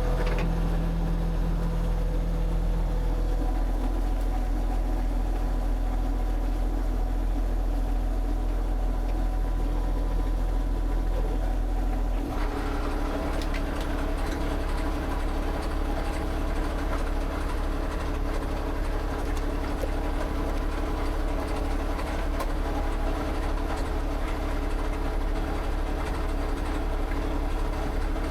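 An engine running steadily with a low hum, its tone shifting abruptly about twelve seconds in.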